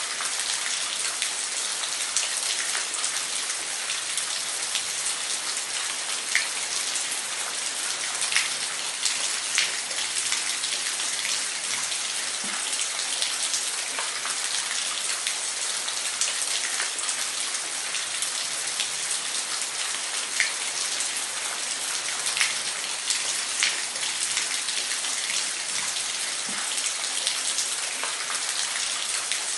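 Waterfall: a steady, even rush of falling water, dotted with brief sharp splashes.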